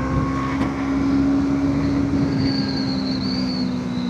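Motorcycle engine running at a steady, unchanging note while cruising, over a constant rush of wind and road noise.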